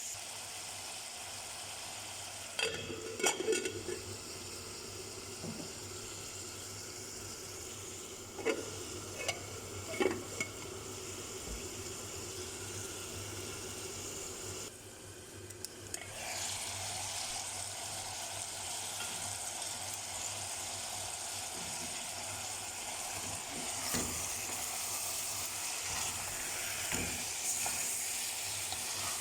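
Food sizzling in a frying pan, with a utensil scraping and clinking against the pan a few times in the first ten seconds. The sizzle drops away briefly about halfway through, then comes back louder.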